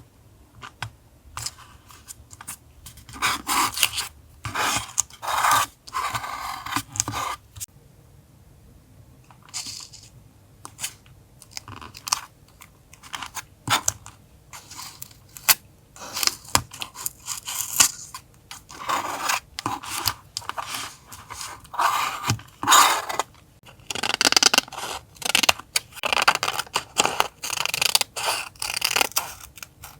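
Paper and stickers being handled for collage journaling: irregular crinkling, scraping and tearing rustles in clusters, with short quieter pauses. A faint steady hum runs underneath.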